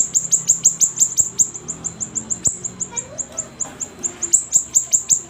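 Siri-siri songbird singing vigorously: a fast, unbroken run of short high notes, each slurring downward, about eight a second. A single sharp click comes about halfway through.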